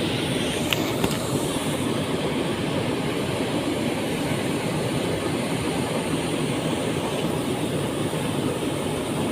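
We'e Kacura waterfall: water falling and rushing in a steady, dense roar, with a couple of faint clicks about a second in.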